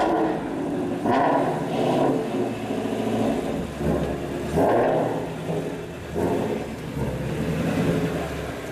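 Car engine and exhaust idling, revved in a series of short throttle blips, roughly five surges that swell and fall back to idle.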